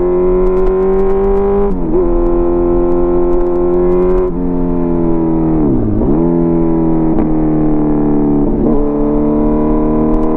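Kawasaki Z900 inline-four engine sounding through an SC-Project CRT aftermarket exhaust, running at a steady mid-range note that climbs slowly. Its pitch dips briefly and recovers several times, with one deeper, slower drop about halfway through.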